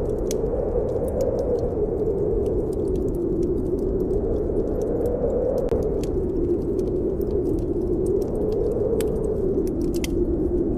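Snowstorm wind howling in slow swells, with a wood fire crackling in frequent sharp pops and clicks over it.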